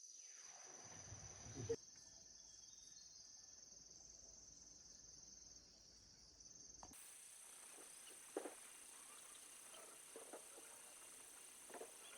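Near silence with a faint, steady high-pitched insect trill, like crickets. The background changes abruptly twice, and a few faint taps come in the second half.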